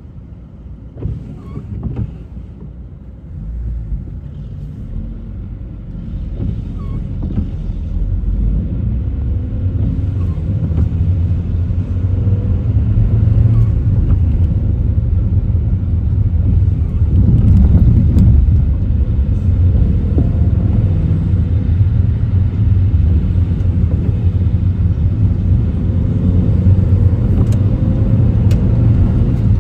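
A car driving, its engine and tyre rumble growing louder over the first ten seconds or so and then holding steady. There are a couple of short knocks about one and two seconds in.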